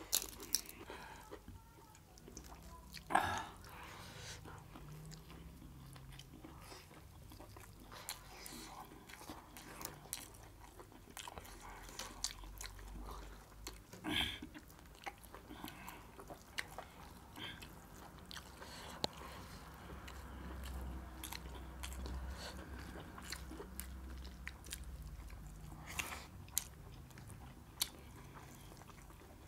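Close-up eating by hand: chewing and biting mouthfuls of rice and mutton curry, with small wet clicks and a few sharper crunches of papad wafers, the loudest about 3, 14 and 26 seconds in.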